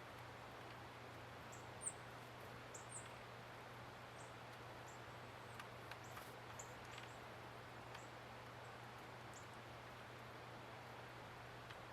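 Faint, short high-pitched chirps from small songbirds at bird feeders, about ten scattered through, over a steady low hum and hiss.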